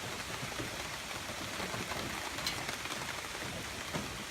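Steady rain falling, an even hiss with a few faint drips and taps.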